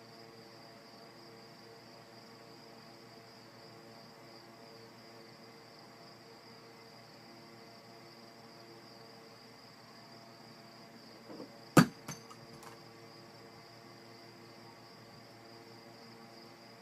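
A faint, steady high-pitched hum over a lower steady drone. One sharp knock comes about twelve seconds in, with a few small clicks around it.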